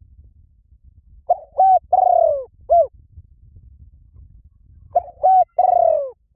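A bird calling in two phrases of low, hooting notes, each phrase a quick pair, a longer falling note and one short note, the second phrase about three and a half seconds after the first.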